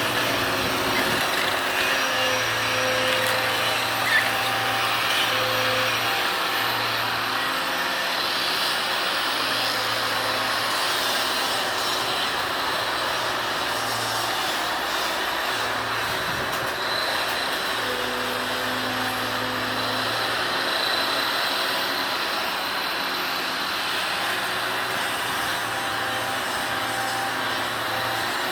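Excavator engine and hydraulics running steadily while it works a hydraulic demolition and sorting grab. A low hum comes and goes as the load changes, and there is one brief knock about four seconds in.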